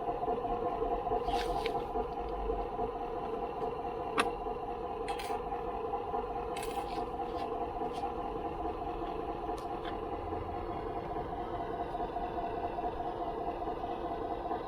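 A steady mechanical hum with a few sharp clicks and light scrapes.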